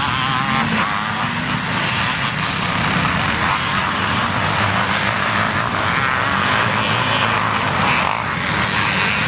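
Several motocross bikes running on the track together, their engines revving up and down in an overlapping buzz.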